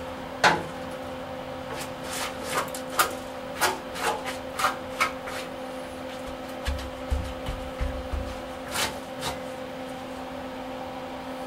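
MIG welder tacking thin sheet steel: a string of short separate arc bursts, the first the loudest, as holes and cracks in the cab floor are tacked closed at a low voltage setting. A steady hum runs underneath.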